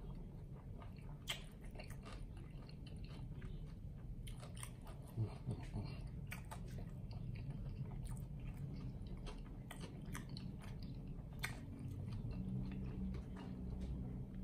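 A person chewing a mouthful of cheeseburger, with many short, wet mouth clicks and smacks.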